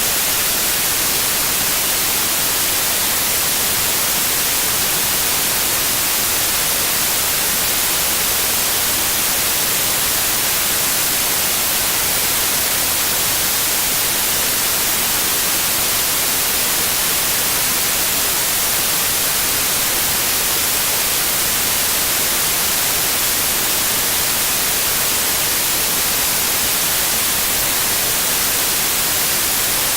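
Steady, unchanging electronically generated white noise: an even hiss, strongest in the high frequencies.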